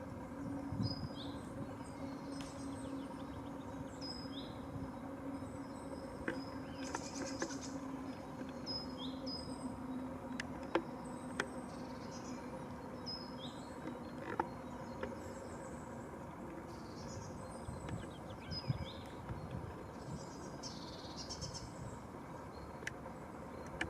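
Small birds calling with short, high, downward-sliding notes repeated every couple of seconds. A few single sharp knocks are scattered through, over a steady low hum.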